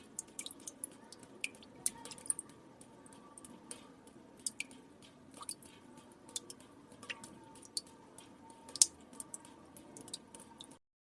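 Water drops falling into still water: irregular small plinks and drips, several a second, one clearly louder about nine seconds in. The sound cuts out to dead silence near the end.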